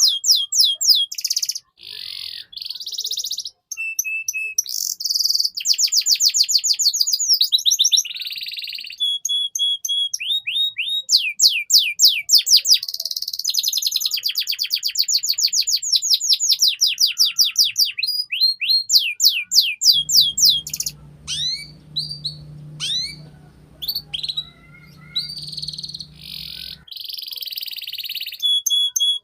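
Domestic canary singing a long, unbroken song of high-pitched rapid trills, fast runs of downward-sweeping whistled notes and buzzy rolls. A faint low hum sits underneath for several seconds near the end.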